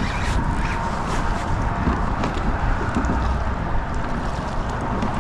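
Steady wind noise on the microphone, a low rumble, with water moving against a kayak's hull.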